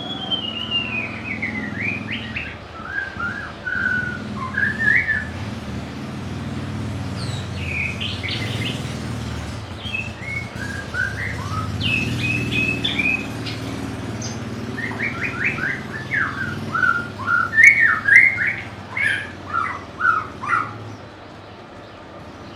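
White-rumped shama singing: three bouts of clear whistled phrases with falling glides and quick trills, over a low steady rumble.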